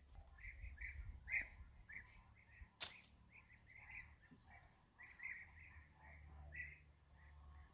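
Small birds chirping faintly and repeatedly, short calls one after another, with a single sharp snap or click about three seconds in.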